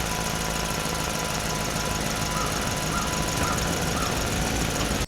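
Mini tractor engine running steadily with an even, rapid chugging.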